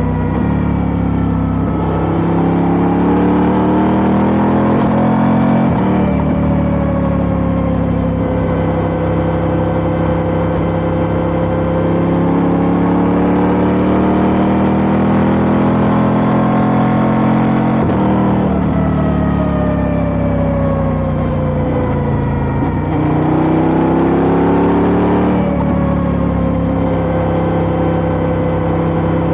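KTM 890 Duke R's parallel-twin engine through an Austin Racing GP1R exhaust, riding on the road. The engine pitch climbs under throttle and drops back sharply four times, as the bike changes up through the gears.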